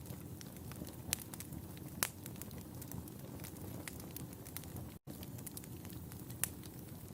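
Wood fire in a fireplace crackling: a steady low rumble of flame with scattered sharp pops, the loudest about two seconds in and near the end. The sound cuts out for an instant about five seconds in.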